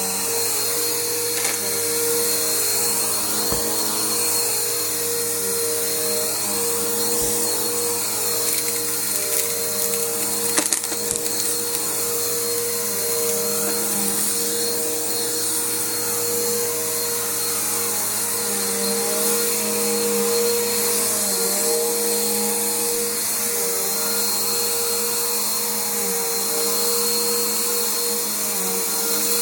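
Bissell PowerForce bagged upright vacuum cleaner running steadily, its motor hum and whine wavering slightly as it is worked back and forth. There is a short knock about ten seconds in.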